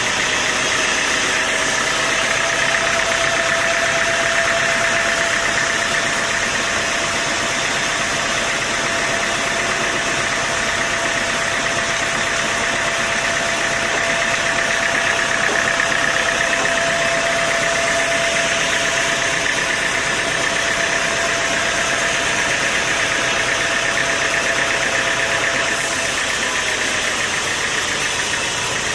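Sawmill machinery running steadily, a continuous mechanical noise with a steady tone through it. The tone fades out near the end.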